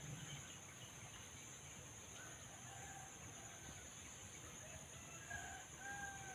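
A bird calling faintly with short, level notes, a few in a row, the last ones longer; its call is likened to a chimpanzee's.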